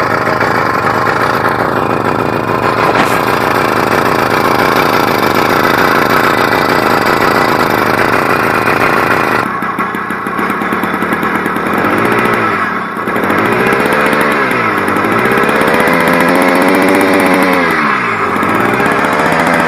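F80 80cc two-stroke bicycle engine running on its first start, a steady note at first, then revved up and down several times in the second half.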